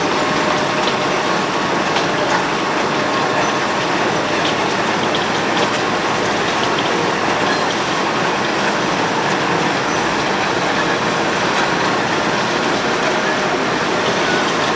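Road planer (cold milling machine) running steadily and loudly, its engine and cutting drum grinding off the road surface.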